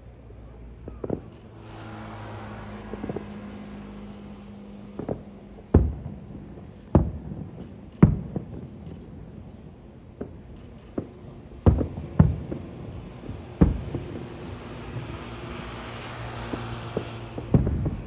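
Aerial fireworks bursting overhead: irregular loud booms, some ringing on, over a faint crackling hiss that swells twice, with a steady low hum underneath.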